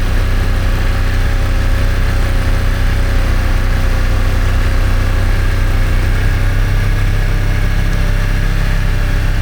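Snowmobile engine running steadily at an even, moderate pace under load as the machine pushes through deep snow.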